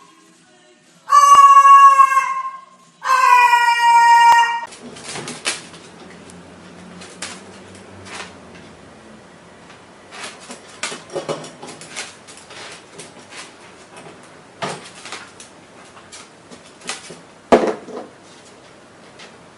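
Two long, loud, high-pitched meow-like animal calls, each held steady and dropping slightly at the end, in the first five seconds. Scattered light knocks and clicks follow.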